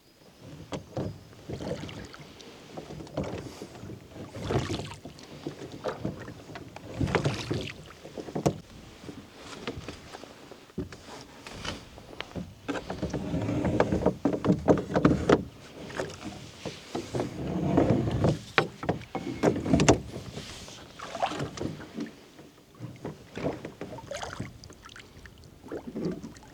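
Rowing a small boat on a lake: strokes of the oars through the water swell up every two to three seconds, with scattered sharp knocks and clicks.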